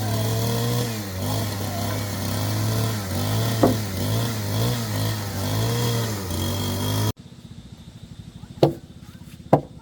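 A handheld power tool's motor running on wood, its pitch wavering up and down as the load changes. It cuts off abruptly about seven seconds in, and two sharp knocks follow.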